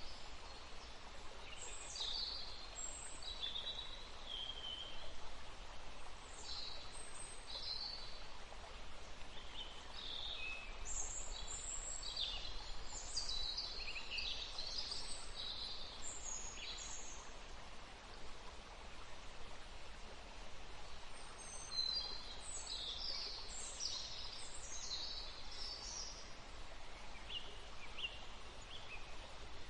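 Woodland stream flowing steadily, with songbirds chirping over it in quick, short calls. The calls come in clusters, thinning out for a few seconds past the middle.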